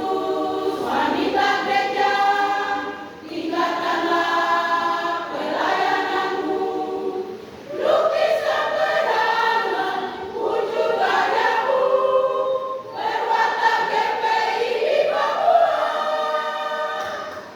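Women's church choir singing in several voices, in long held phrases with short breaths between them; the singing stops near the end.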